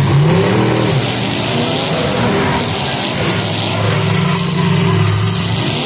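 Demolition derby car engines revving and running. The pitch swings up and down in the first second, and a steady engine drone follows later.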